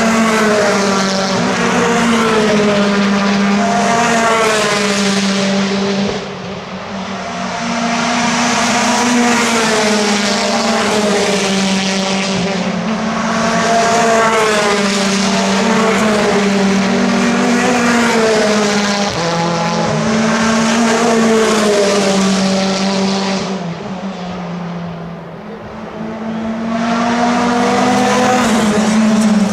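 Racing cars at speed on the circuit, several engines one after another, their notes repeatedly climbing through the gears and dropping as they lift, with brief lulls between groups of cars.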